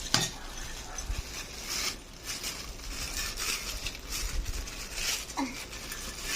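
Packaging rustling and crinkling as a box of decorations is opened by hand, with irregular handling noises and small clicks.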